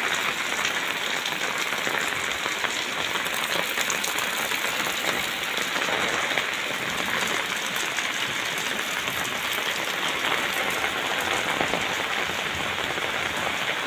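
Heavy rain pouring hard, a steady, even hiss of falling drops.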